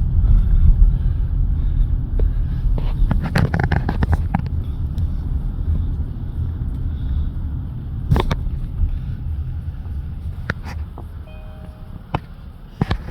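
A car driving: a low rumble of road and engine noise, with a few sharp knocks along the way, growing quieter toward the end.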